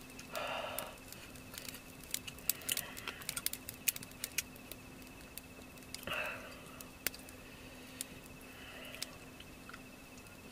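Close-up eating sounds: soft chewing and a run of small mouth clicks, with a few short rustling bursts. A steady high insect trill, like crickets at night, continues underneath.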